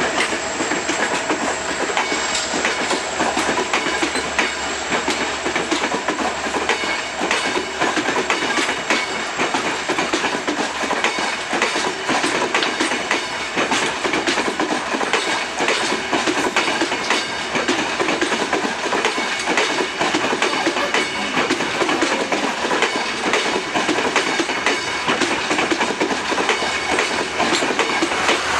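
ICF passenger coach running along the track, its wheels clattering steadily over the rails.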